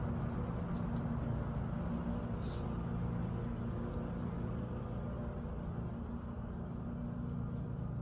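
Steady low outdoor hum and rumble, with a small bird giving short high chirps, about two a second, from halfway through.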